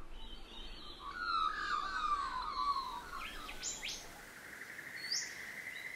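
Several wild birds calling: a warbling run of falling notes for the first few seconds, then a few sharp whistles sweeping steeply upward, and a long, even trill through the second half.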